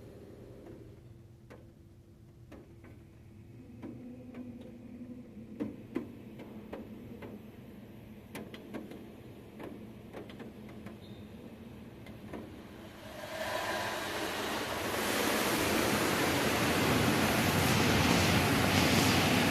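Automatic truck wash heard from inside the vehicle: scattered drips and taps of water on the body, then about two-thirds of the way through a loud, steady rush from the wash equipment sets in and holds.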